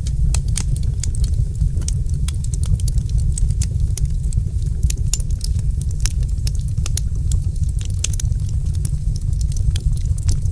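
Wood fire crackling, with frequent sharp little snaps and pops over a steady low rumble.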